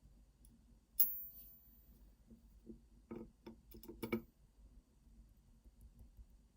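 Small metal lock parts from a disassembled pin-tumbler cylinder being handled: one sharp metallic click with a brief ring about a second in, then a quick cluster of lighter clicks and taps about three to four seconds in.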